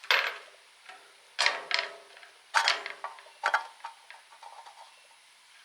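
Metal clanks and clicks from hand tools worked against an old electric motor's housing while its screws are being removed: about five separate sharp knocks, a couple with a brief metallic ring.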